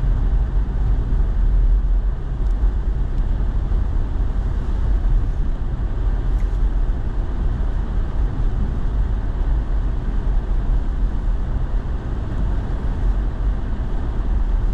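Steady in-cab noise of a pickup truck driving on a snowy road: a low engine and tyre rumble, with the heater fan blowing on the windshield to keep it from freezing over.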